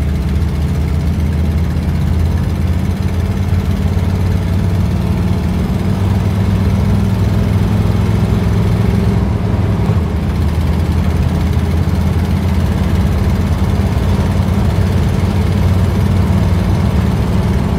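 Inside the cabin of a 1955 Ford Fairlane under way, the engine and exhaust drone low and steady as the car gains speed. No noise comes from the speedometer.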